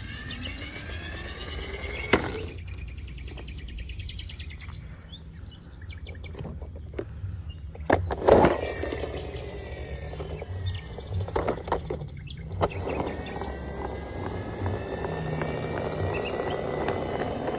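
Steady outdoor background noise with scattered bird-like chirps, broken by a few sharp knocks, the loudest about eight seconds in.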